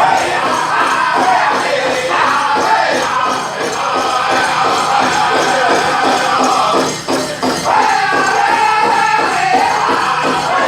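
Powwow drum group singing a chicken dance song, voices in unison over a steady, driving beat on a big drum.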